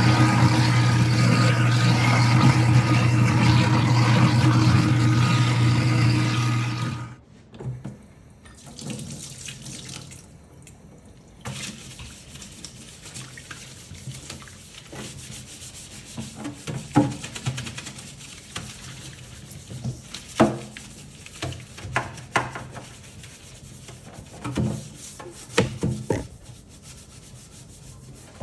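InSinkErator garbage disposal running with water flowing into the sink: a steady, loud motor hum under a rush of noise that stops abruptly about seven seconds in. After that come quieter scattered knocks and rubbing.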